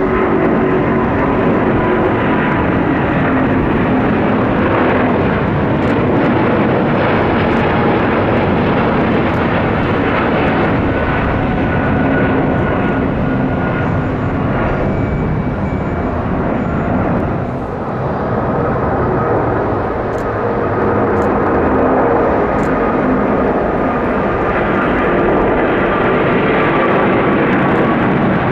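Jet airliner engines running loud and close, a steady rushing roar with faint whining tones over it; it eases slightly about two thirds of the way through, then swells again.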